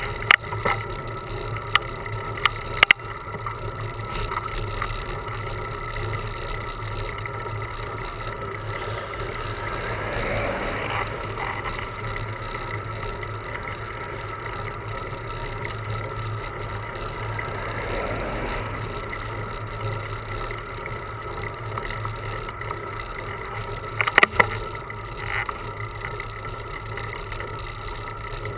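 Steady riding noise of a road bicycle picked up by a camera on the bike: a constant hum and hiss. A few sharp clicks or rattles come near the start and again about 24 seconds in, and two brief swells of noise come around 10 and 18 seconds.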